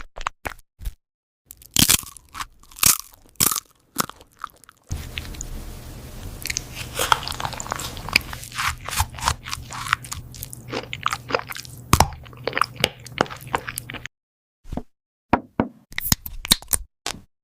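A cat biting and chewing crunchy food: quick irregular crunches and snaps in runs, with short pauses. A steady low hum sits under the crunching through the middle part and cuts off abruptly.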